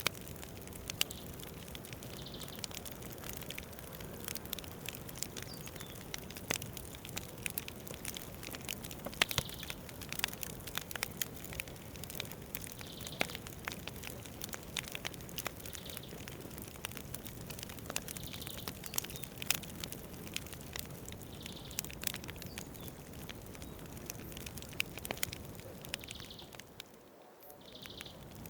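Wood campfire crackling, with irregular sharp pops and snaps over a steady hiss. Faint short high chirps recur every few seconds, and the sound drops away briefly near the end.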